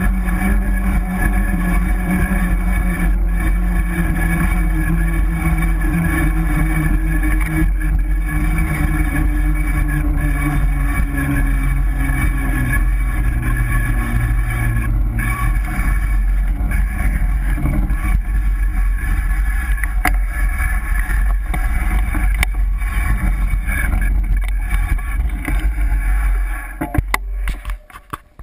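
Mountain-bike riding noise picked up by a bike-mounted GoPro: a loud, steady low rumble with rattles and clicks, and a steady whine from a rubbing disc brake. The sound dies away shortly before the end.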